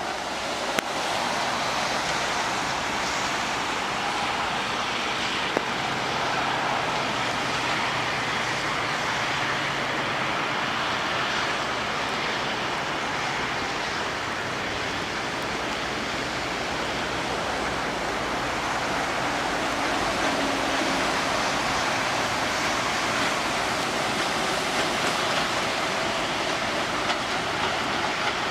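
Airliner cabin noise during takeoff: a steady rush of jet engine and airflow noise with a faint low hum. There is a sharp click about a second in and another about five seconds in.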